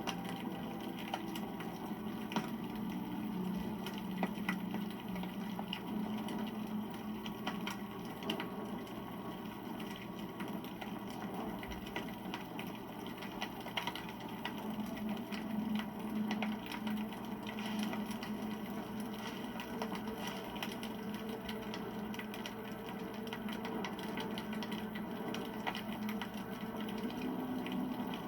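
Wood bonfire crackling, with many small sharp pops over a steady low rush of the flames.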